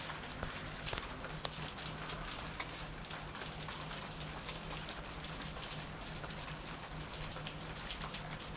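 Rain falling steadily, with many single drops ticking sharply on nearby surfaces over an even hiss.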